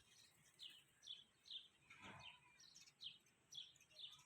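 Faint bird chirping: short, high, falling notes repeated about twice a second, with one brief noise about two seconds in.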